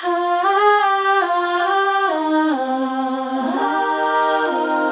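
AI-generated (Suno) wordless vocal melody: a single voice held on notes that step downward, settling on a long low note about three and a half seconds in.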